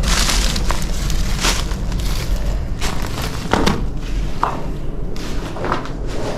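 Irregular crunching footsteps and scrapes over loose debris, over a steady low rumble of wind on the microphone.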